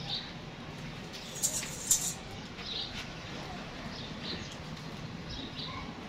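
Small birds chirping faintly in the background, with two sharp clicks about a second and a half and two seconds in.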